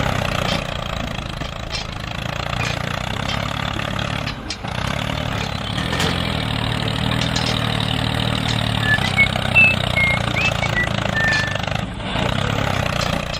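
Engine running steadily at a low, even idle, with a few short high chirps heard about two-thirds of the way in.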